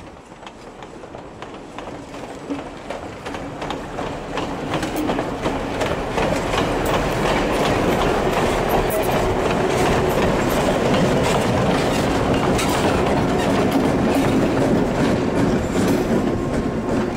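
Heritage passenger train rolling past, wheels clacking over rail joints. It grows louder over the first few seconds as the trailing GP9 diesel locomotive draws near, and the diesel's steady engine hum joins the clatter of the wheels.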